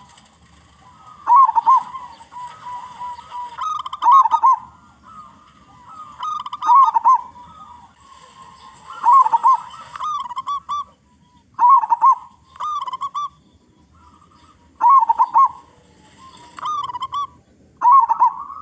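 Zebra dove (local perkutut) cooing: a short phrase of quick, rolling notes repeated about every two to three seconds, about eight times.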